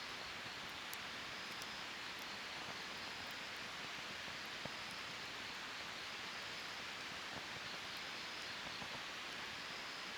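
Wood fire burning in a steel fire pit: a steady hiss with scattered small crackles and pops, one a little louder about halfway through.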